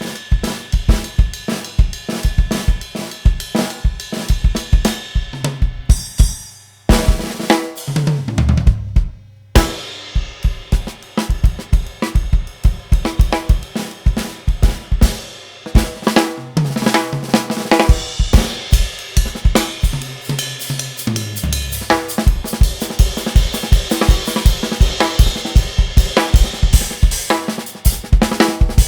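Jazz-fusion band playing live, the drum kit driving it with snare, bass drum, cymbals and hi-hat. About six seconds in the drums break off for a few seconds while a low line slides downward, then the full band comes back in.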